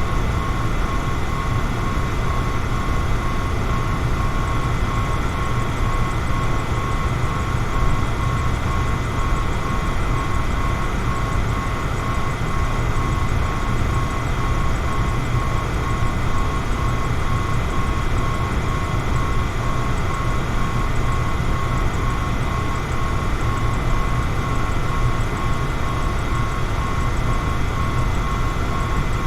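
Electric fan running steadily: a constant rush of air over a low motor hum, with a faint steady whine on top.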